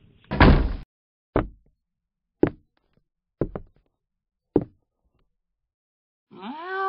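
A short burst of noise, then a series of sharp knocks about a second apart, two of them close together in the middle. Near the end a cat's drawn-out meow begins.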